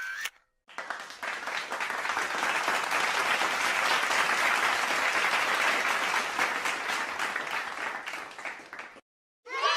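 Applause from a crowd, many hands clapping together. It starts about half a second in, swells over the first couple of seconds, holds, then dies away and stops shortly before the end.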